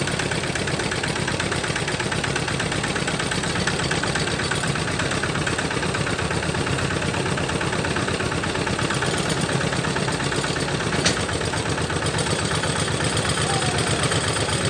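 Homemade tractor's engine running steadily with an even, fast firing beat, and one sharp click about eleven seconds in.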